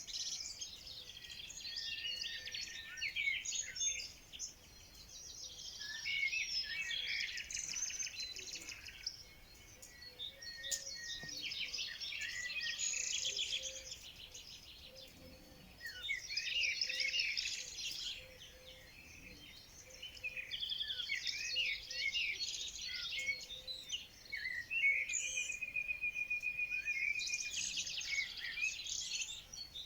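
Songbirds singing in bouts of two to three seconds, with short quieter gaps between them; near the end a rapid, even trill.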